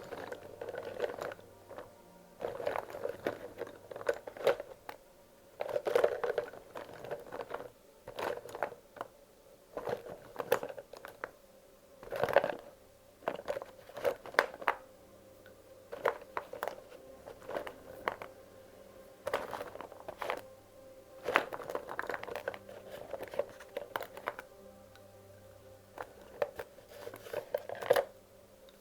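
Wax crayons being handled and sorted, clicking and clattering against one another in short bursts about every second or two.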